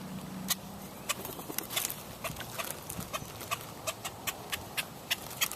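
Birds making a quick, uneven series of sharp clicks, about three to four a second.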